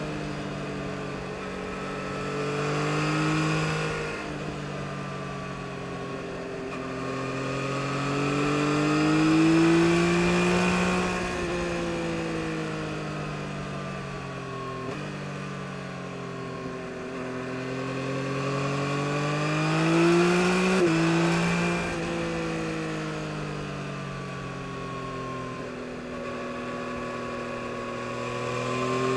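2022 Yamaha MT-09 SP's three-cylinder engine pulling hard and easing off several times, its pitch climbing and falling. There are sudden drops in pitch, the sharpest about 21 seconds in, consistent with quick-shifted upshifts.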